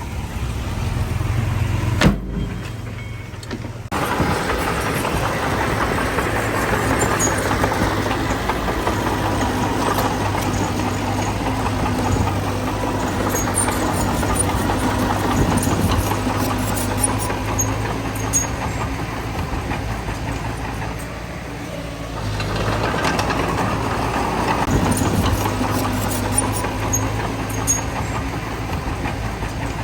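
Heavy diesel earthmoving engine, most likely the bulldozer's, running steadily under load, with faint metallic clicks and squeaks over the drone. The sound cuts out sharply for about two seconds near the start, then returns.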